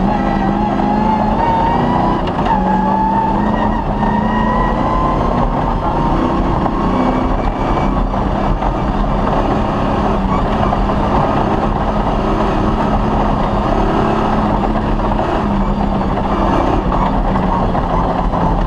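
Cross-country rally car's engine running hard at speed under a dense, noisy rumble. Its pitch climbs slowly over the first several seconds, then holds steady.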